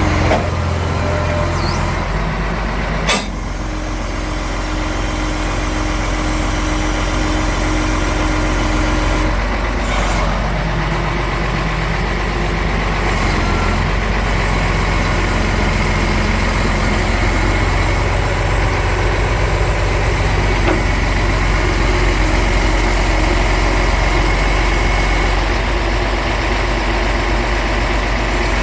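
Iveco 380E42 heavy 6x6 truck's diesel engine idling steadily, with a brief sharp click about three seconds in.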